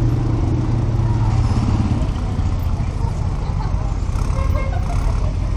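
Audi TT RS's 2.5-litre turbocharged inline five-cylinder engine idling with a steady low exhaust note.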